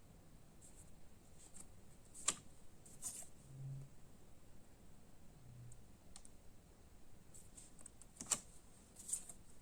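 Faint scattered clicks and rustles of cards and packaging being handled: two sharp clicks about six seconds apart, each followed shortly by a brief rustle, with a couple of short low hums between them.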